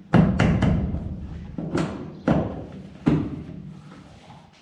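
Plastic taillight housing being pushed and knocked into its hooks on a pickup's body: a run of sharp knocks, three close together at the start, then a few more spaced out over the next couple of seconds.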